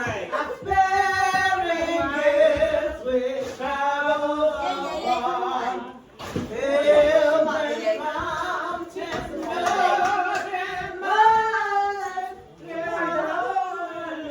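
Several voices singing together with long held notes.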